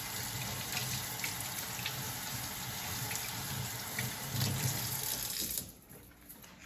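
Water running from a sink tap as hands are rinsed under it; the tap is shut off and the water stops suddenly about five and a half seconds in.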